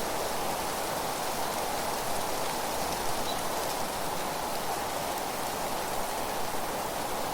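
Steady wind with leaves rustling, an even, unbroken wash of noise.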